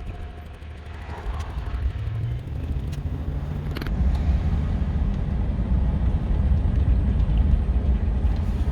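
Pickup truck driving: steady low engine and road rumble that grows louder about four seconds in.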